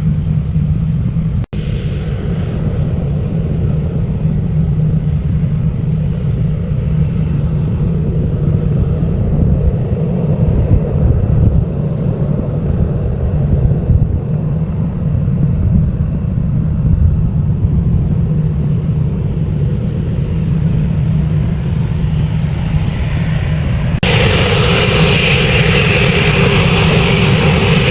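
Airliner jet engines running as a steady low rumble, with a brief dropout about a second and a half in. Near the end the sound changes abruptly to a louder, brighter engine noise with more hiss and whine.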